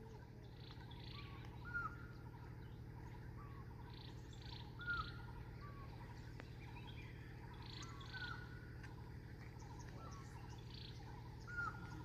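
Birds calling faintly: short notes that rise and level off, repeated every second or so, over fainter higher chirps.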